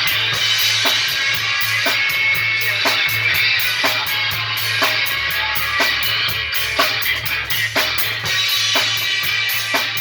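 Rock and roll music led by a full drum kit, with a sharp snare hit about once a second over a steady low bass line.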